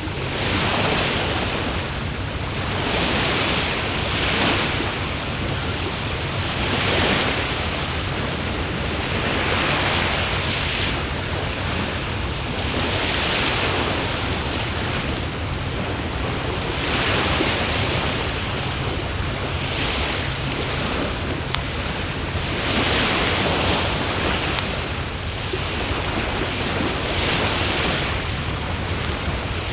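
Wood fire burning in a Coleman Fire Disk fire pan, with a few faint crackles, under a rushing noise that swells and fades every two to three seconds. A steady high-pitched whine runs through it all.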